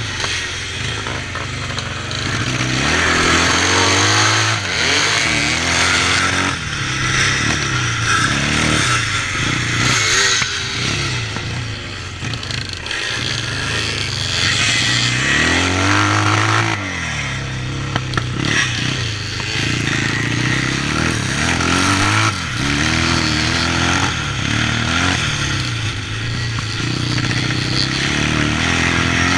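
Yamaha 650 parallel-twin motocross bike engine being ridden hard, revving up and dropping back again and again as the rider works the throttle and gears.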